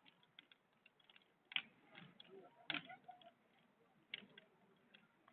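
Wood bonfire crackling faintly: irregular sharp pops and snaps, a few louder ones among many small ticks.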